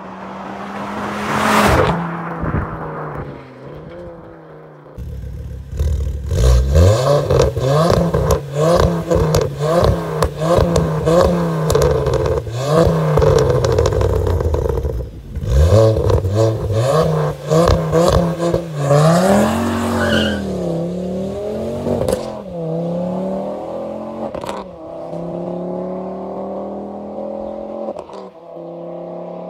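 Ford Focus ST225's turbocharged 2.5-litre five-cylinder engine driven hard, revving up and down again and again with rapid crackles, then pulling steadily up through the revs near the end.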